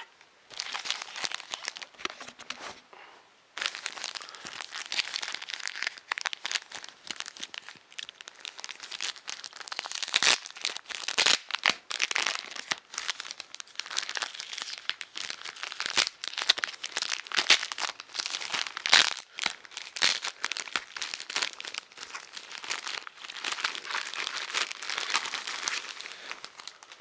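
Plastic packaging being unwrapped and handled: continuous irregular crinkling and crackling in quick bursts, with a quieter stretch in the first few seconds.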